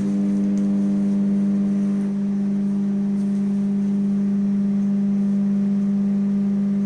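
IFB 25PM2S microwave oven running on defrost with a steady low hum, which jumps up sharply right at the start as the oven's power cycles on.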